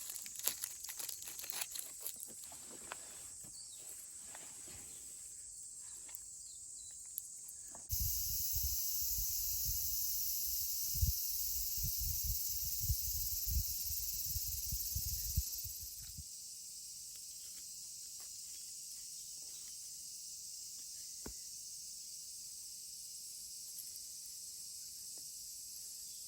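Insects chirring steadily in summer woods. Over the first several seconds there are close crackling and rustling handling noises, and after a cut there is a low rumble for about eight seconds before it settles back to the insect hum with an occasional faint tick.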